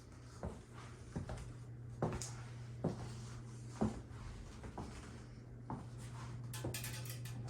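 Footsteps on a hard floor, about one step a second, over a steady low hum. A quick cluster of sharp clicks comes near the end.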